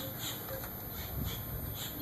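Outdoor background of faint, short high chirps repeating a few times a second over a low rumble.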